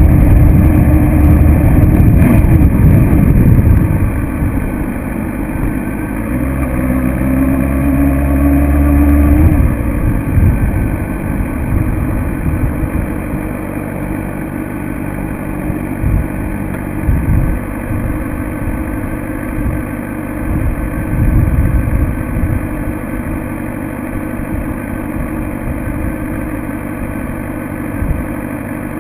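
2006 Suzuki GSX-R750 inline-four engine at high revs for the first few seconds, then backing off. It revs up again with a rising pitch around the seventh to tenth second, cuts back sharply, and runs at lower, uneven revs for the rest.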